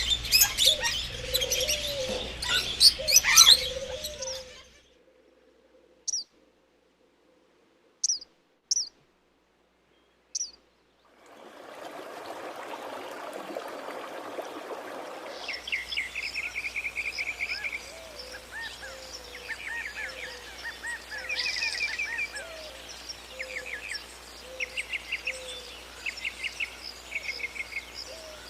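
Birds chirping and calling, with a low repeated note beneath the higher chirps. About five seconds in, it drops to near silence broken only by a few single chirps. A patch of hiss follows, then rapid trilled chirps and the low note resume.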